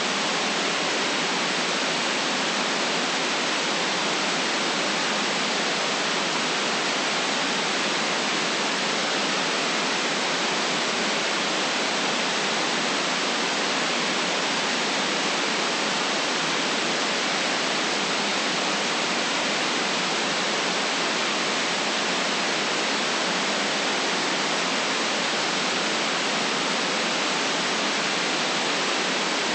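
Steady white noise: a constant, unchanging hiss with no other sounds in it.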